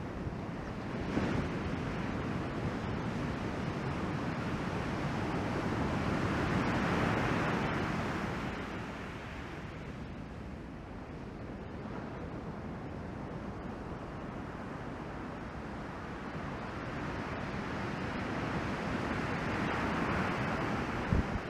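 Ocean surf from a large typhoon swell: a steady wash of breaking waves that swells up twice, about a third of the way in and again near the end, with wind buffeting the microphone.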